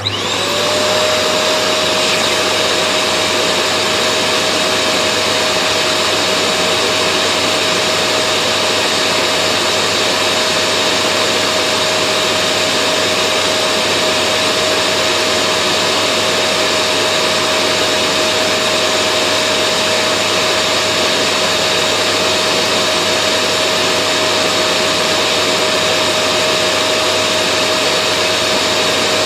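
Vacuum cleaner switched on: its motor spins up within the first half second, then runs steadily, a constant whine over a loud rush of air.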